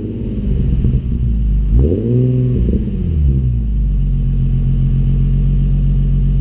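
2013 Infiniti G37S sedan's 3.7-litre V6 through an ARK Grip cat-back exhaust: a rev falling away at the start, one quick throttle blip about two seconds in, then a steady idle.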